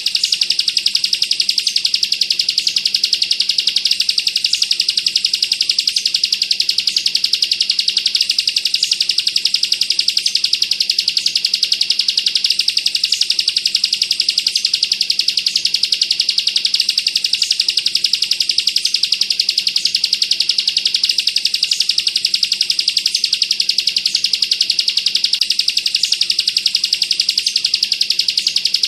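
Bar-winged prinia (ciblek kristal) singing a dense, unbroken rapid-fire trill: the close-packed 'bren' song likened to an AK-47 burst, with high, fast notes that never pause.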